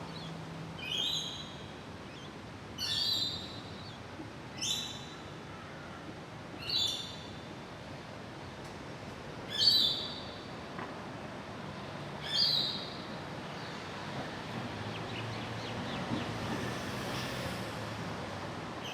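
A bird calling six times, a short high call every two to three seconds, over steady outdoor background noise.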